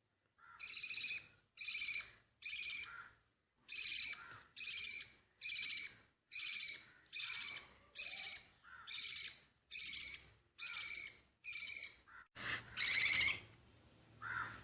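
Baby budgie chick begging to be fed during hand-feeding: a steady run of short repeated calls, roughly one a second, ending in a longer, louder call.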